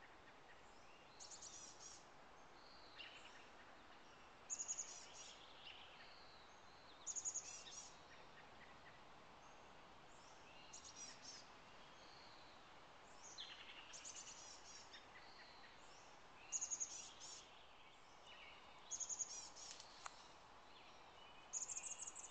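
Songbirds singing: a short, very high phrase repeats about eight times, every two to three seconds, with fainter chirps in between, over a faint steady background hiss.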